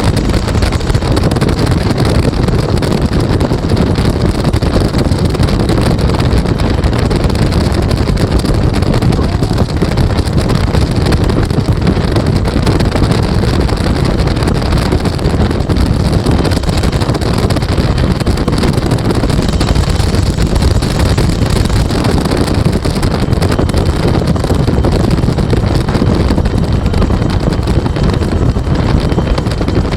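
Two-bladed Bell UH-1 Huey helicopter in flight, heard from the open gunner seat: steady, loud rotor and turbine noise with wind buffeting the microphone.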